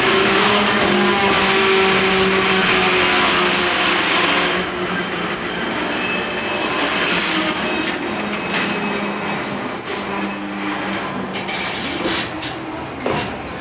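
Freight train wagons rolling past on steel rails. A thin, high, steady wheel squeal sounds from about two seconds in until about eleven seconds, and a few sharp clacks over rail joints come near the end.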